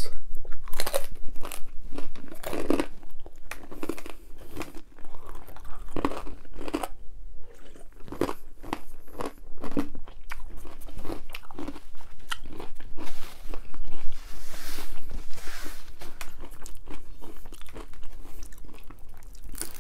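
Close-miked chewing and biting of crisp gluten-free pizza crust, with irregular crunches.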